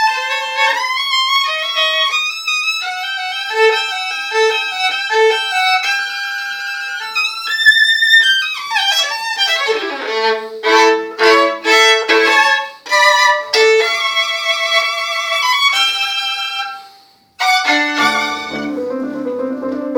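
Violin playing a melodic sonata passage, with a long falling slide about eight to ten seconds in, then a run of short, detached notes. The sound breaks off briefly near the end before lower notes come in.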